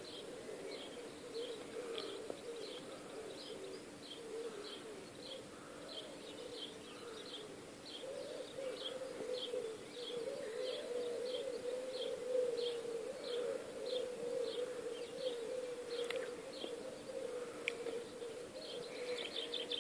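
Garden birds singing at dawn: one bird repeats a short high note about twice a second, over a steady, wavering low hum.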